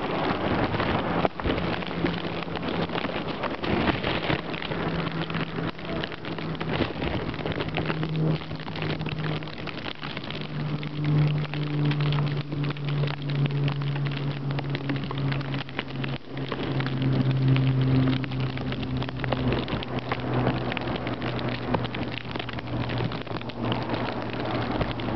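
Blizzard outdoors: wet, wind-driven snow pattering and crackling on the microphone over a constant rushing noise, with a low steady hum underneath from about six seconds in.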